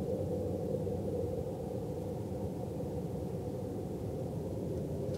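Loud, steady low drone from the sky, of unknown origin. It is a dull noise with no clear pitch and no change in level or tone.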